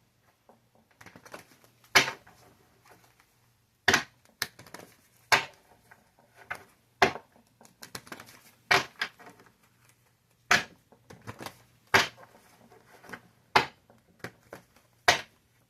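Tarot cards being shuffled and handled by hand: a series of sharp card snaps, irregular and roughly one a second, with soft rustling between.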